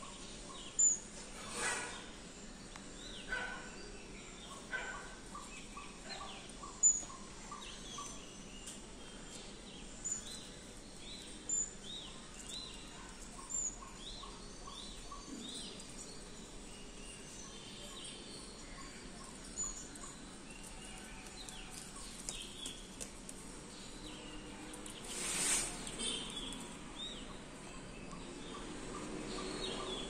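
Small birds chirping: short, scattered high chirps, a few of them sharp and louder, over a steady background hiss. A brief rustling noise comes near the end.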